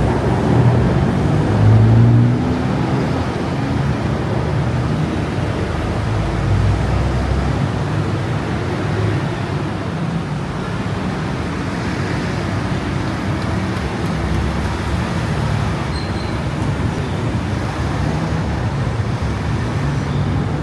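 Steady city road traffic: a continuous wash of engines and tyres. One vehicle's engine rises in pitch and is loudest about two seconds in.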